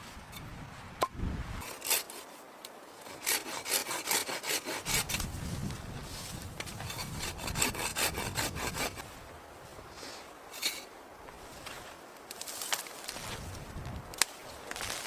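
Hand saw cutting through wood in runs of quick, even strokes, a few a second, with short pauses between runs.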